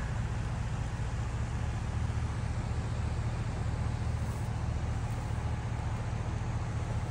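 Flooded desert creek rushing steadily over a road crossing, a continuous low rumble under an even hiss of moving water.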